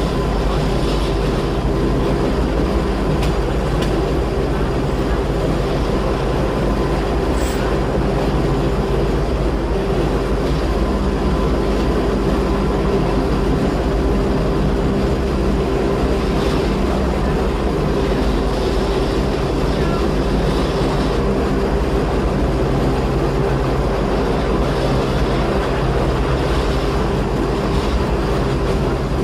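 Gornergrat Bahn electric rack-railway car running uphill, heard from inside the car: a steady hum with a few held tones over a low rumble.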